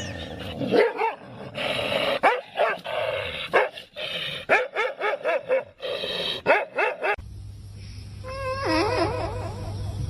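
A dog barking and yipping in quick, short bursts for about seven seconds. Then, after an abrupt change, a steady low hum with a wavering whine over it.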